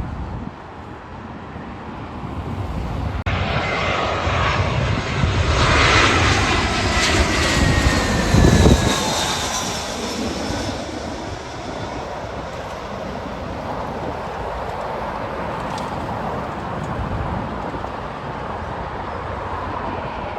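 Airliner passing close by, its engine noise swelling to a peak a few seconds in, with a whine that falls in pitch as it goes past, then fading to a steady rumble.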